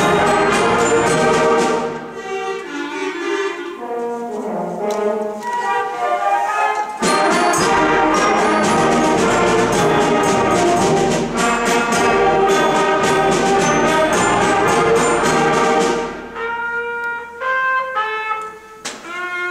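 Sixth-grade school concert band playing, with brass prominent. The full band plays loudly, turns softer and thinner from about two seconds in, and comes back in full about seven seconds in. Near the end it thins to a few short phrases from fewer instruments.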